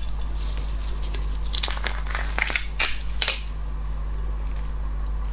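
Crinkling and sharp cracking clicks of shellfish shells being broken and peeled by hand, in a quick cluster about halfway through, over a steady low electrical hum.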